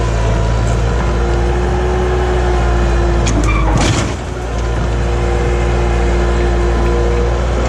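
Skid steer loader's engine running steadily under load, with a steady whine over its drone. A couple of sharp knocks come about three to four seconds in, as the 4-in-1 bucket works.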